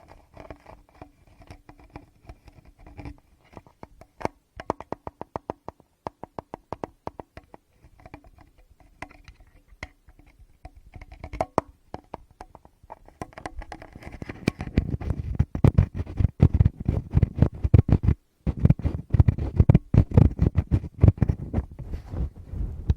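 Fingers touching a Tascam recorder's microphones close up: quick taps and light scratches at first, then, a little past halfway, louder dense rubbing and brushing over the mics with deep muffled thumps.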